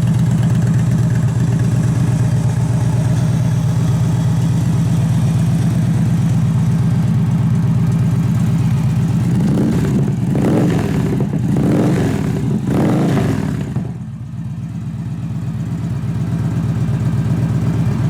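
2014 Victory Cross Country's V-twin idling through a Victory performance exhaust, then revved in several quick throttle blips. It drops back sharply and settles to idle again.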